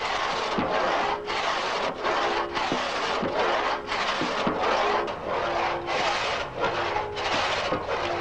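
Two-man pit saw (Dielsäge) ripping an oak log lengthwise by hand, its teeth set to cut only on the downstroke: a steady rhythm of rasping saw strokes, about one and a half a second.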